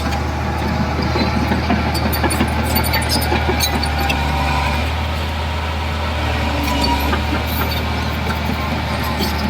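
Heavy diesel earthmoving machine running steadily, with scattered metallic clanks and rattles over the engine drone.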